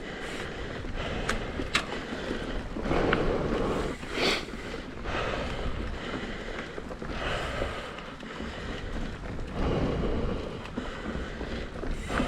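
Mountain bike rolling over a dirt trail: tyre and drivetrain rattle with wind noise on the microphone, a couple of sharp clicks early and a brief louder burst about four seconds in.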